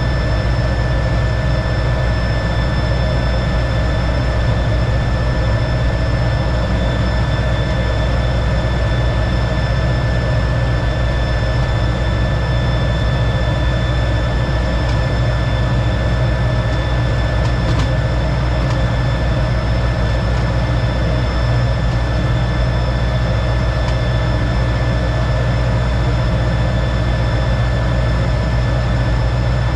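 T-33 jet trainer's turbojet engine heard from inside the cockpit: a steady, loud drone with a deep rumble and a constant high whine.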